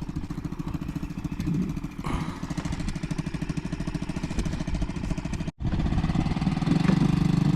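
Outboard motor idling as it warms up, with a steady, even beat. The sound cuts out for a split second about five and a half seconds in, then the motor runs a little louder.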